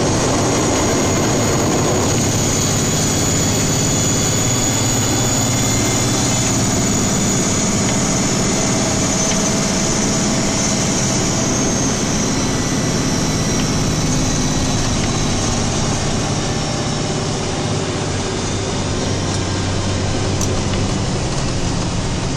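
Snowplow truck driving, heard from inside the cab: the engine drones steadily under a loud, even rush of road noise, with a faint steady high whine over it.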